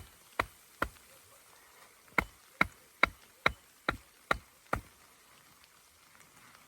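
A rapid, even series of sharp knocks: three, a short pause, then seven louder ones.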